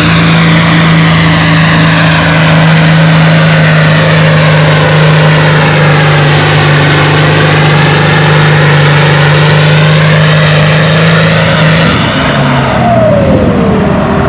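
Farm tractor engine running at full throttle under heavy load while pulling a weight sled, a loud steady drone. About twelve seconds in the note breaks off and drops as the tractor throttles back at the end of the pull.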